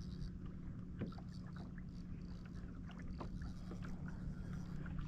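Kayak on the water: small irregular ticks, knocks and water splashes against the hull over a steady low hum.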